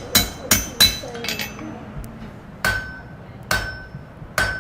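Blacksmith's hammer striking on an anvil: three quick blows in the first second, then three slower blows about a second apart that each ring with a clear metallic tone.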